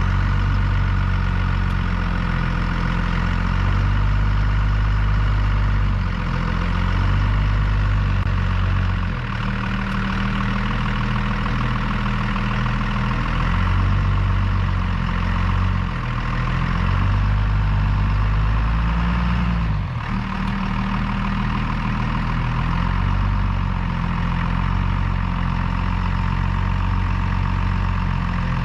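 Truck engine running under load during a mud recovery, its speed rising and falling every few seconds.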